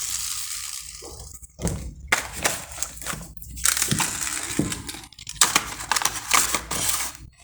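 Irregular rustling and crackling, like objects or plastic being handled and crumpled close to the microphone, coming in uneven bursts with short pauses.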